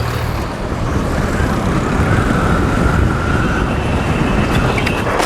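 Wind and road rumble of a moving motorcycle picked up by the rider's camera, steady and noisy, with a faint high whine for a couple of seconds midway.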